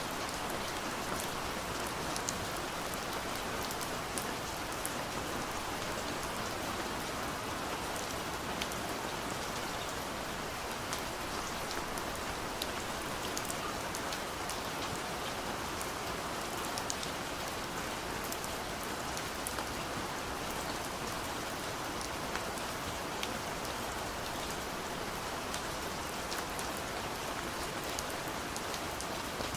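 Steady gentle rain falling on a window, an even hiss with many small scattered drop ticks.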